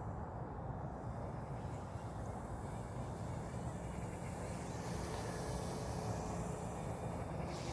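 Small M1 EVO electric RC helicopter hovering, its rotors and motor giving a steady low drone.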